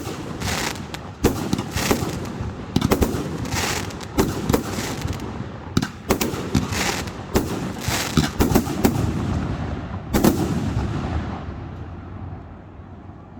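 Aerial fireworks display: a rapid run of bangs and crackling shell bursts, with a last loud bang about ten seconds in, then a fading rumble as the echoes die away.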